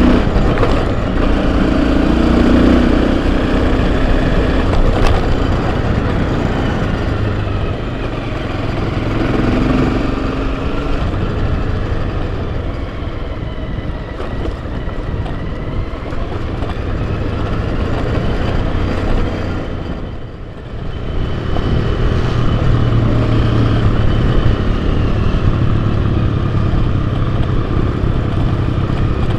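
Enduro motorcycle engine running under way on a dirt trail, its revs rising and falling, with a short ease-off about twenty seconds in.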